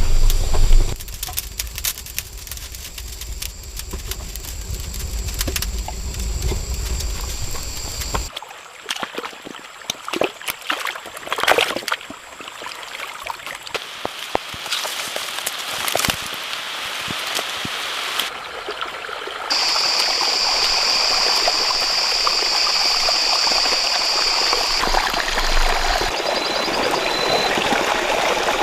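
Running water with scattered sharp knocks and clicks in the middle. From about two-thirds of the way through, a steady high buzz comes in and turns into regular pulses near the end. The sound changes abruptly several times.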